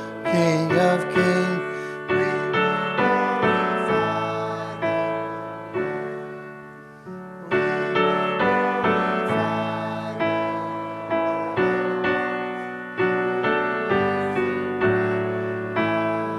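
Piano playing a slow, gentle piece, chords struck and left to ring away; about seven seconds in the notes die down briefly before the playing resumes.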